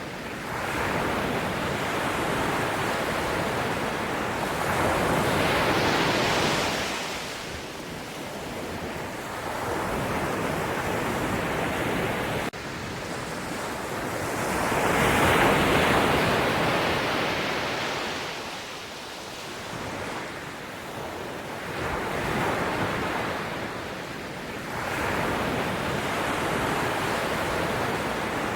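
Ocean waves breaking and washing on the shore, a continuous surf that swells and recedes every few seconds.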